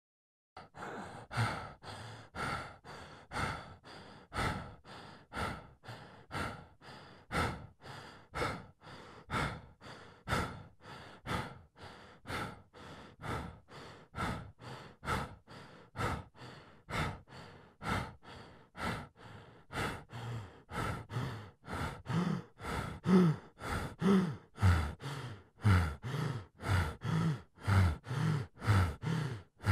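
A person breathing fast and hard, short in-and-out breaths about two a second, starting after a brief silence. In the last third the breaths grow louder and take on a low, groaning voice.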